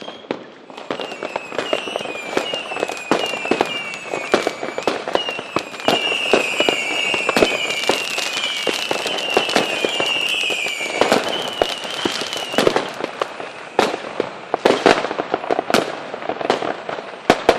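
Fireworks going off: dense crackling pops and bangs, with a string of short whistles, each falling in pitch, through the first two-thirds, then scattered bangs near the end.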